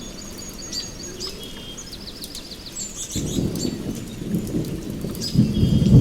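Rain falling with birds chirping and trilling, and a low rumble of thunder that comes in about three seconds in and swells louder near the end.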